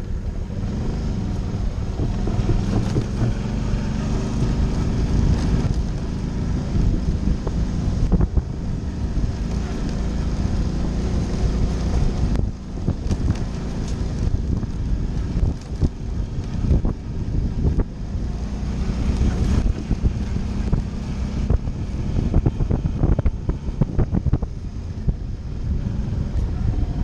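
Suzuki V-Strom motorcycle engine running under way on a dirt road, with heavy wind noise on the microphone. Frequent short knocks and rattles from the bike jolting over the rough surface.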